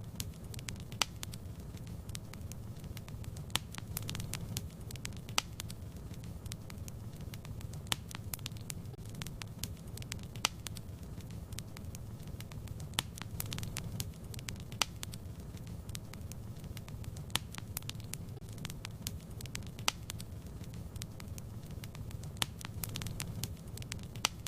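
Wood fire burning in a fireplace: a steady low rumble of the flames with scattered sharp crackles and pops, a few each second.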